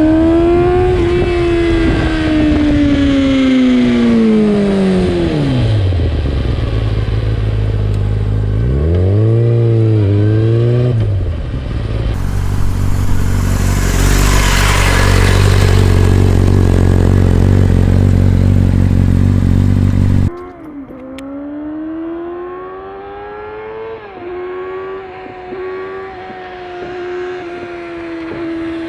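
2003 Yamaha YZF-R6's 600cc four-cylinder engine through an open Akrapovic exhaust with the dB killer removed. The engine note falls away, blips up briefly, settles into a steady low drone for several seconds, then after a sudden cut about two-thirds of the way in it rises and falls again through the revs.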